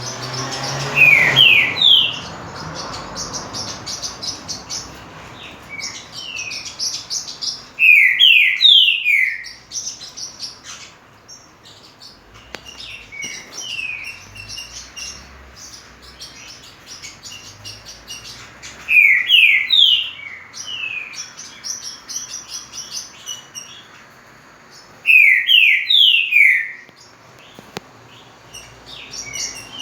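Green-winged saltator (trinca-ferro) singing: four loud phrases of clear slurred whistled notes, each phrase a quick run of three or four notes, with softer high chattering notes between the phrases.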